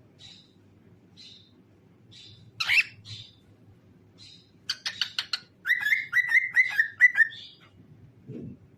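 Cockatiel chirping and whistling: a few short chirps, a louder call, then a quick run of notes and a string of about five short whistles.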